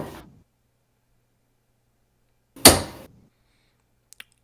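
Darts thudding into a dartboard, twice: one right at the start and another about two and a half seconds later, each a sharp thump that dies away quickly.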